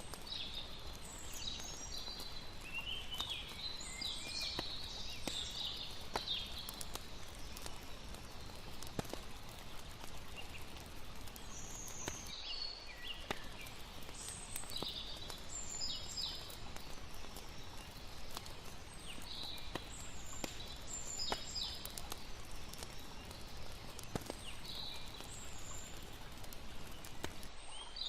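Layered campfire night ambience: a steady hiss of water under scattered crackles and pops from a wood fire, with clusters of short high chirps from birds or night insects. The bed drops out briefly twice, where the mixed loop restarts.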